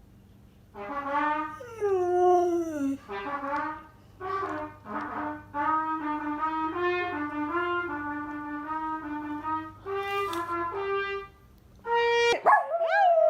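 A dog howling along to a brass instrument playing a slow tune of held notes. Near the end a louder, wavering howl comes in.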